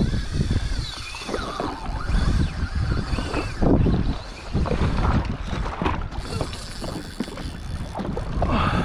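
Sea-Doo jet ski running on open, choppy sea, with wind buffeting the microphone in uneven gusts and a faint wavering whine.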